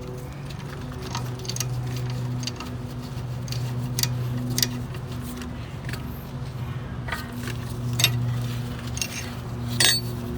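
Scattered metallic clinks and taps of the brake caliper, bracket and bolts being handled and lined up, the sharpest about eight seconds in and near the end, over a steady low hum.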